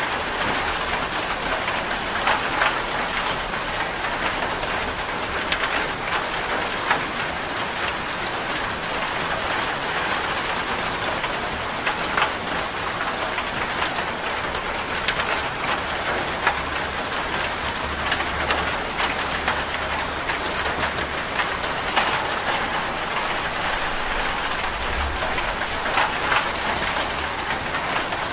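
Steady rain, an even hiss with scattered sharp ticks of drops. A low rumble comes in a little past halfway and fades near the end.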